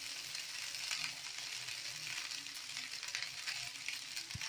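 Fish fried rice sizzling steadily in a non-stick kadai on the gas stove, with a few faint clicks.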